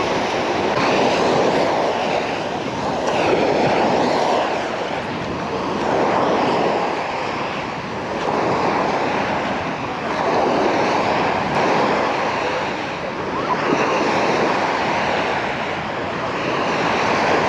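Small sea waves washing onto a beach, the surf swelling and fading every two to three seconds.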